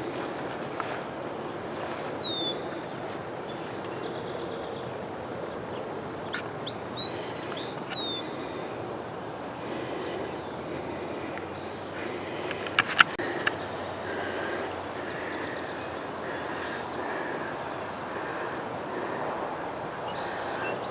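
Steady high-pitched chorus of insects in the woods, with a few short descending bird chirps and some low rustling noise.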